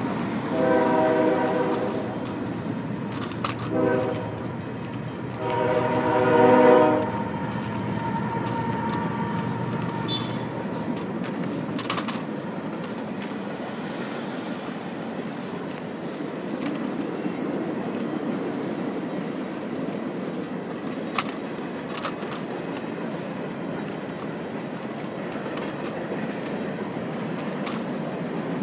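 Freight locomotive horn sounding three blasts, long, short, long, as the train crosses the road at grade, followed by the freight cars rolling steadily past with a continuous rumble and a few sharp clanks.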